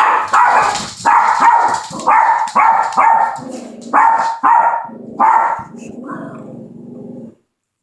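Dogs barking repeatedly at a chirping smoke detector: about nine loud barks in the first five and a half seconds, then a quieter, lower, drawn-out sound that cuts off suddenly near the end.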